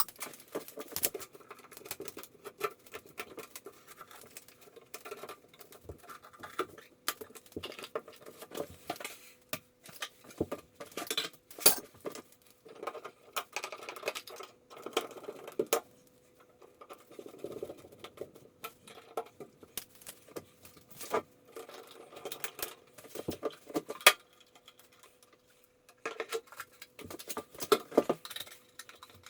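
Irregular clicks, taps and knocks of small hard parts and tools being handled during work on an electric shower, with a few sharper knocks, over a faint steady hum.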